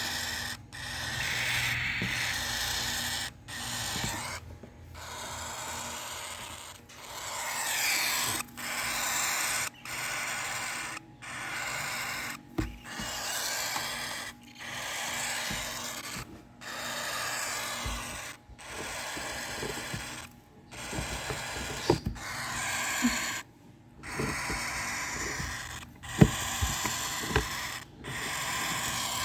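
Lutino cockatiels giving hungry food-begging calls: a long series of harsh, hissing calls, each lasting one to two seconds, with short breaks between them. A few sharp clicks come near the end.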